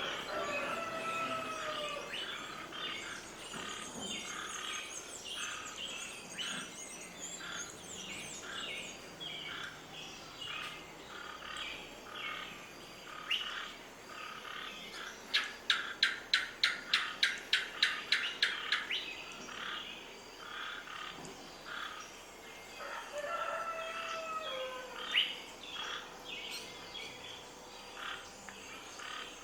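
Several birds chirping and calling, with a rapid run of about a dozen loud, sharp notes, about four a second, midway through, and a falling whistled call near the start and again near the end.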